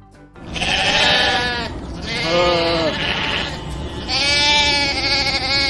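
Sheep bleating: three long, wavering bleats one after another.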